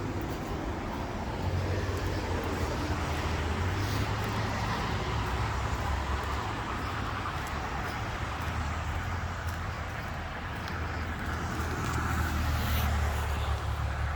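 Road traffic: steady tyre and engine noise of cars going by, swelling about a second and a half in and again near the end as vehicles pass.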